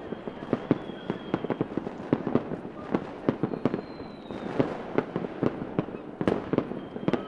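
Fireworks going off in quick, irregular succession: many sharp bangs and pops, a few a second, over a steady crackle. A couple of faint thin whistles come through, one falling slightly in pitch.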